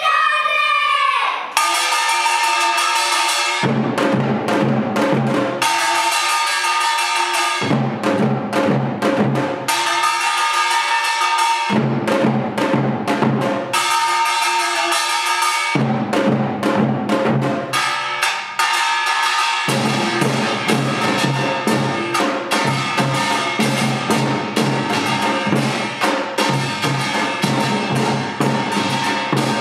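Yeongnam samul nori percussion quartet playing: small and large gongs (kkwaenggwari and jing) ringing over hourglass and barrel drums (janggu and buk). The drums drop out and come back in turns of about two seconds, then all play together without a break from about two-thirds of the way in.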